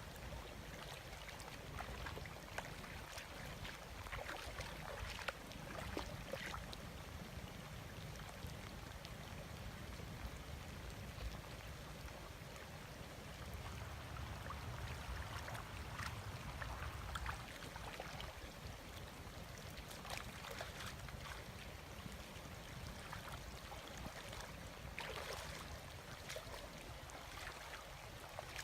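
Shallow water sloshing and splashing faintly, with scattered small splashes every few seconds.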